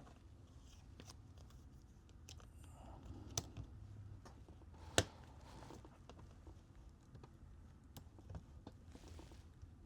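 Faint scattered clicks and taps of small parts and tools being handled during phone reassembly, with two sharper clicks about three and a half and five seconds in.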